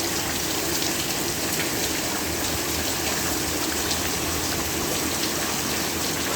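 Heavy rain falling steadily, a dense even hiss of rainfall with many fine drop ticks.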